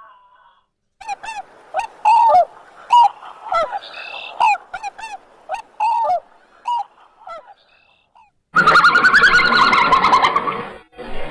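Geese honking: a string of short, separate honks, about a dozen over six seconds. Near the end a much louder, harsh drawn-out animal call takes over.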